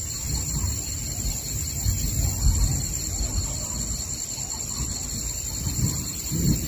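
Steady high-pitched insect chorus with a low rumble of distant thunder beneath it, swelling and fading and rising again near the end.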